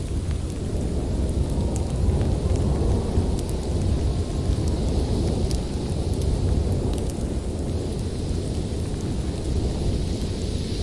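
Storm wind blowing steadily with a deep low rumble, with sparse faint crackles of a wood fire.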